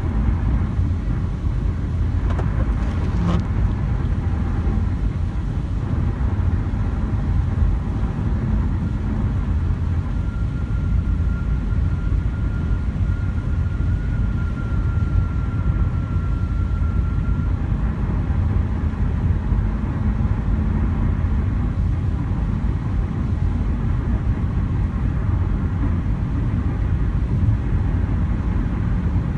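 Steady low rumble of a vehicle running, with one short click about three seconds in and a faint steady high tone from about ten to seventeen seconds in.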